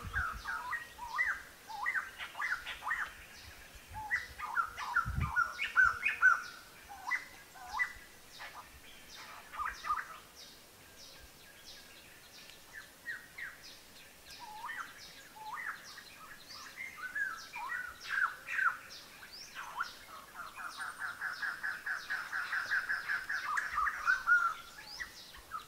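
Several wild birds chirping and calling in short, quick notes, with a fast trill of repeated notes near the end. One dull thump about five seconds in.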